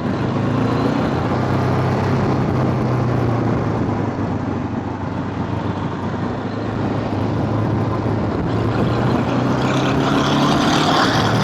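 Motor scooter engine running steadily under wind rush on the microphone while riding, with the engine note rising a little near the end.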